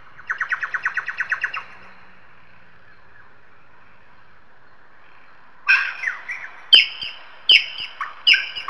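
Bird calls: a rapid chattering trill near the start, then, after a lull, a series of loud, sharp calls that fall in pitch, about one every three-quarters of a second, from about two-thirds in.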